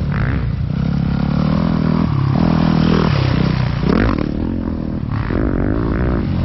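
Dirt bike engines running and revving, their pitch rising and falling repeatedly.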